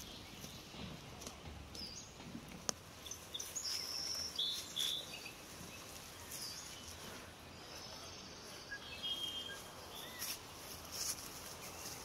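Small birds chirping in short, high calls, in two spells, over a quiet outdoor background with scattered sharp clicks and rustles.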